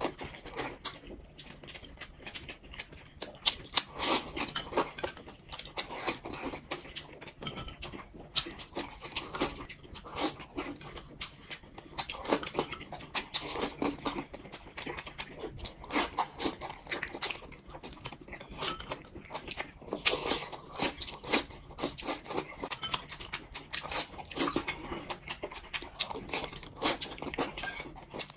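Two people eating close to the microphone: wet chewing, mouth smacking and slurping as they eat boiled dumplings and fried eggs, with many small irregular clicks and smacks.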